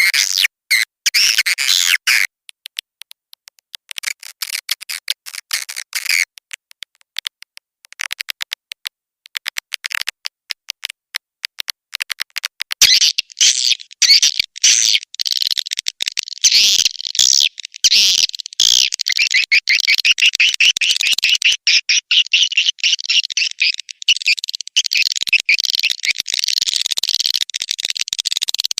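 Swiftlet lure call: rapid, high chirping and twittering of edible-nest swiftlets, broken and sparse at first, then dense and continuous from about halfway through.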